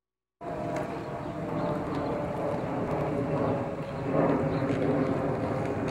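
After a brief dropout in the audio, a motor vehicle's engine runs nearby amid street noise, growing louder.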